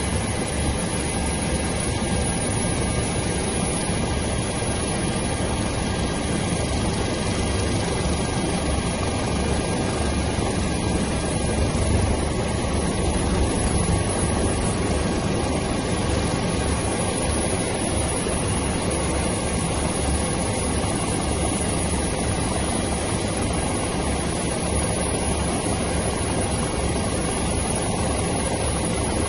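Helicopter rotor and engine noise, a steady dense din heavy in the low end, swelling slightly about halfway through.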